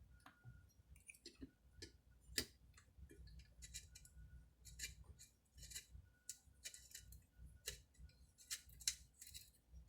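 Faint, irregular clicks and light taps of small metal parts and hand tools being handled during chainsaw reassembly, the sharpest click about two seconds in.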